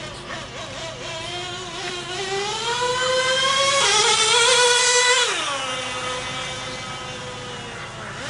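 Small GO 0.98cc two-stroke nitro engine of a 1/16-scale RC buggy revving: the pitch climbs over about two seconds, holds high and loudest for about a second and a half, then falls sharply back to a lower, steadier note.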